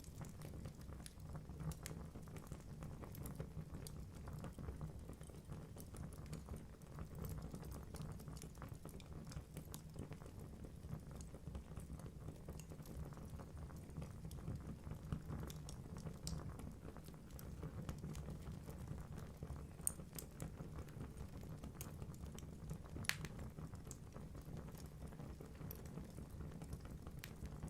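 Wood fire burning in a fireplace: a low steady rumble of flames with frequent small crackles and pops from the logs, a few sharper pops standing out near the end.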